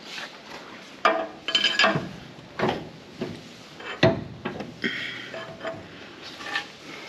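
Steel clanking: a few sharp metal-on-metal knocks about a second and a half apart, two of them followed by a brief ringing of struck steel, as tools and loader mounting hardware are worked against the bracket.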